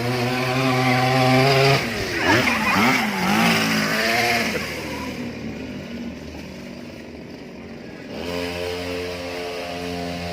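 Small lawn-mower engine powering a homemade four-wheeler, running steadily at first; about two seconds in its pitch sweeps down and wavers for a couple of seconds, it goes quieter, then steady running returns near the end.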